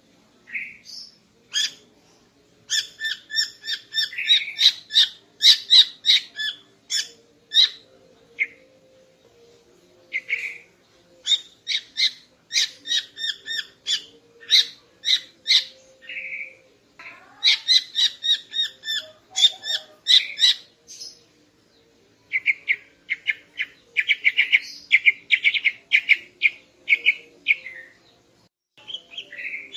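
Female greater green leafbird (cucak ijo) calling: bouts of quick, repeated high chirps, each bout a few seconds long, with short pauses between them. A faint steady hum runs underneath.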